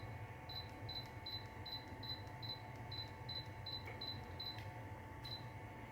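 Yokekon ultrasonic humidifier's control unit giving short high beeps as the remote's timer button is pressed over and over, about two beeps a second, eleven in a row, then one more near the end, stepping the timer through its hours.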